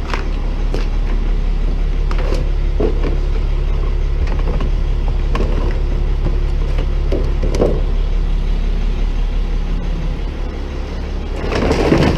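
Tow truck engine idling steadily, with scattered knocks and rattles of trash and plastic parts being tossed into a trash can.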